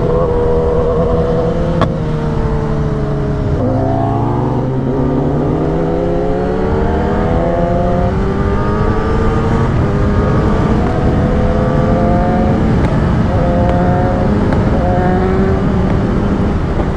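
Superbike engine running under way: its pitch sags slowly, dips sharply about three and a half seconds in, then climbs steadily as it accelerates, and afterwards holds fairly even with small rises and falls.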